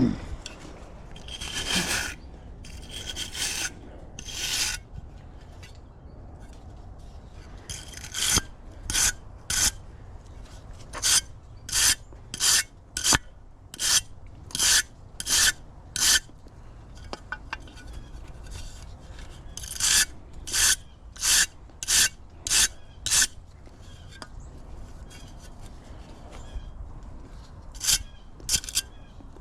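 Scraping strokes on a gas furnace burner as it is cleaned: a few longer strokes, then runs of short, even strokes about one and a half a second, broken by pauses.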